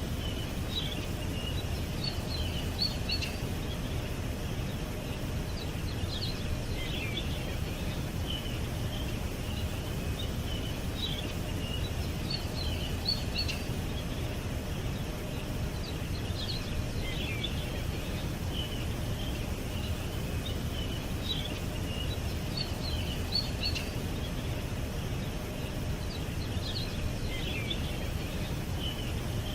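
Small birds chirping in short clusters every few seconds over a steady low background rumble.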